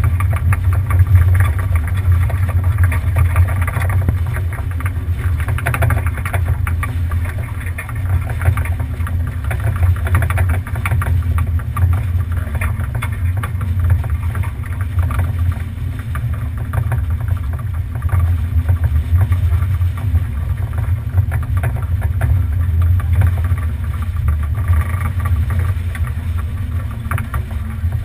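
Steady low wind rumble buffeting an action camera's microphone aboard a sailboat under way, with the noisy wash of water along the hull throughout.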